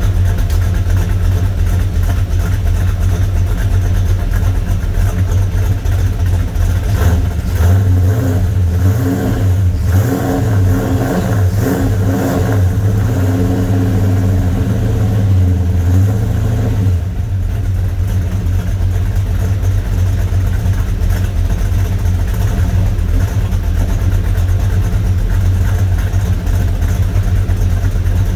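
1974 Plymouth Duster's 360 V8, bored to 366, running through headers and a 2.5-inch Pypes exhaust with turbo mufflers: mostly idling, with the revs raised a few times in the middle stretch.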